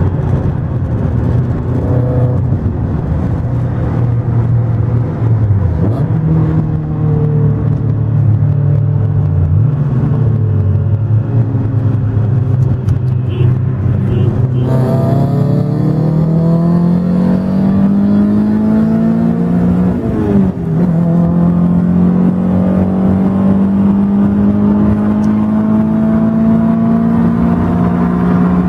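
Swapped Honda DOHC VTEC four-cylinder engine heard from inside the car: holding a steady note for about fifteen seconds, then revving up in a long rising pull under hard acceleration. The pitch drops briefly at a gear change about twenty seconds in, then climbs again.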